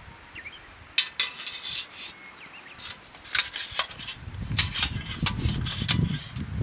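Irregular metallic clinks and knocks of camping gear being handled, with a rougher handling rustle in the second half and a few faint bird chirps.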